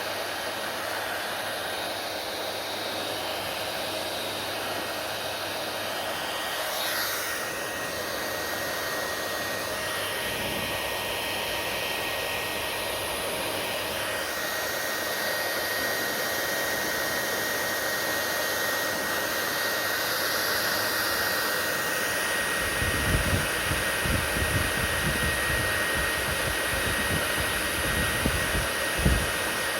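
Hair dryer running steadily: an even rushing blow with a thin high whine. Irregular low thumps come in during the last few seconds.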